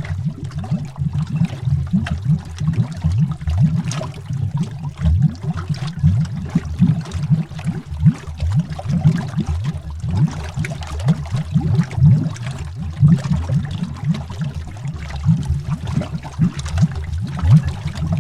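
Underwater bubbling: a continuous stream of small bubbles rising, heard as dense low gurgling blips.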